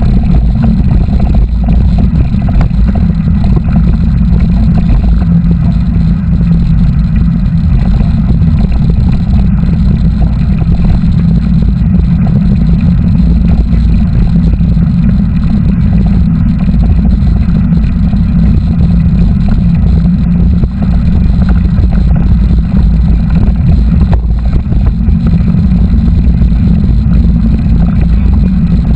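Steady, loud low rumble of wind buffeting the microphone of a camera riding along on a moving mountain bike.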